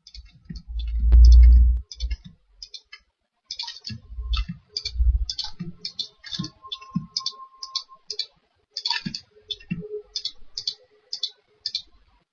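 Computer mouse clicking over and over, about two clicks a second, as curves are picked one by one on screen. A loud low thump near the start and a few softer ones later.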